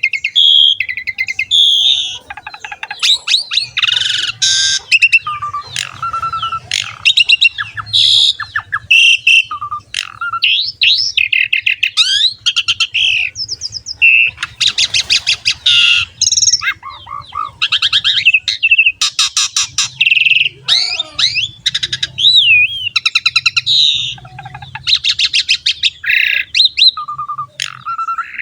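Javan pied starling (jalak suren) singing a long, varied song with barely a pause: clear whistles, gliding notes and fast clicking rattles, one after another.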